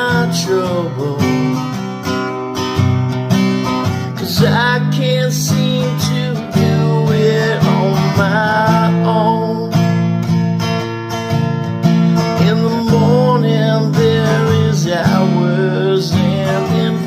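Acoustic guitar strummed as an instrumental break, with a melody line above the chords that bends in pitch here and there.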